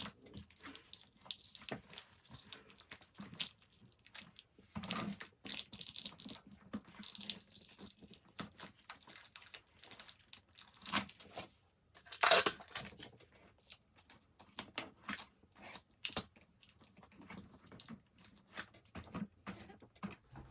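Hands moving items around in a gift basket: scattered rustling and crinkling of paper or plastic with light knocks, the loudest rustle about 12 seconds in.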